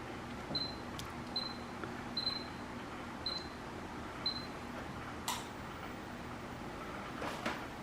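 Five short, high beeps of the same pitch, about a second apart, with a sharp click about five seconds in. They fit a treadmill console's button beeps as the machine is tried while being diagnosed.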